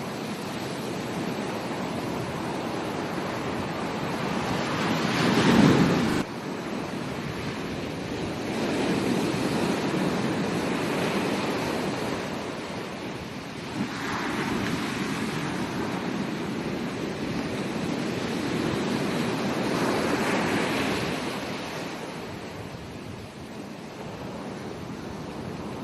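Ocean waves breaking and washing up a beach, the surf swelling and easing every few seconds. The loudest break comes about six seconds in and cuts off suddenly.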